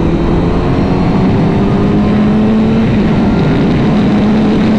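Honda CBR1000RR Fireblade inline-four engine pulling under acceleration while riding, its note climbing slowly, dipping briefly about three seconds in and then climbing again, under heavy wind rush.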